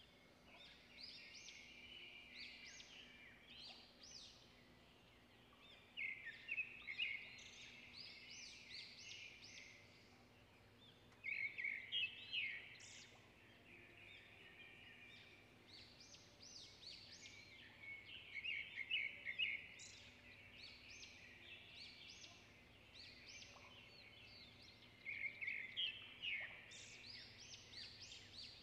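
Small songbirds singing faintly in quick, high chirping phrases, with a louder flurry of song every five to seven seconds.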